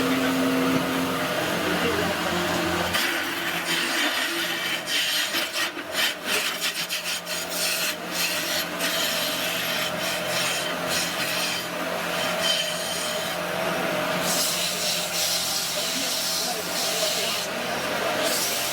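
Wood lathe running with a steady motor hum; from about three seconds in, a tool scrapes and rasps against the spinning wood in uneven strokes.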